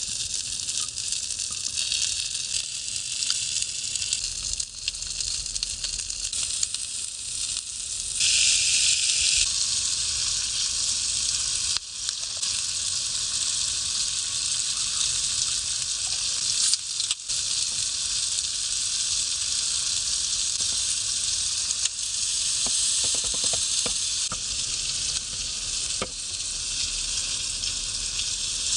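Food sizzling in a hot frying pan: a steady crackling hiss, briefly louder about eight seconds in.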